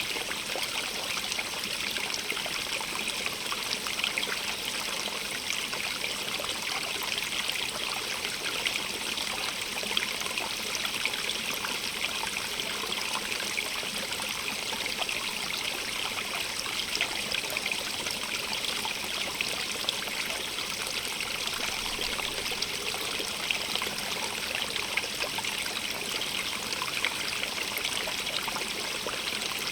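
A small stream running and trickling over rocks: a steady, even rush of water with fine splashing detail.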